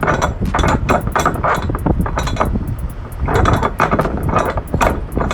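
Repeated metallic clinking and rattling over a steady low rumble.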